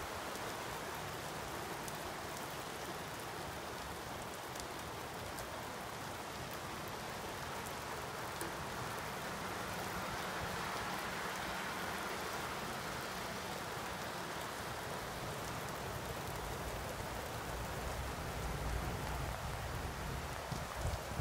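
Steady rain falling on a wet street and foliage, an even hiss without pauses. A low rumble comes in near the end.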